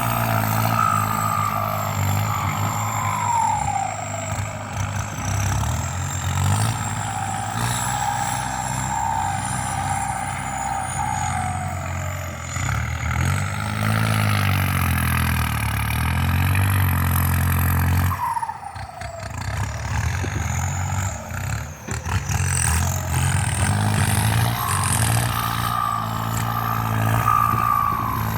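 Kubota M8808 tractor's turbo-diesel engine working hard under plough load, with a turbocharger whistle over the engine note that falls in pitch several times as the load eases. The engine note drops briefly about two-thirds of the way through, then picks up again.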